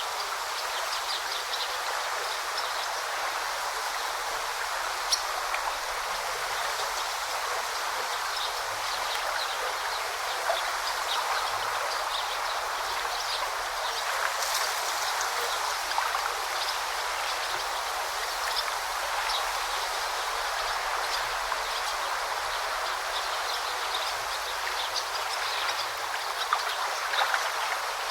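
River or brook water flowing steadily over stones, a continuous babbling rush sprinkled with many small quick splashes.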